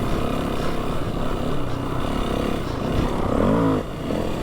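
4WD engine and tyres running under load over soft sand moguls. The engine note sweeps down briefly near the end.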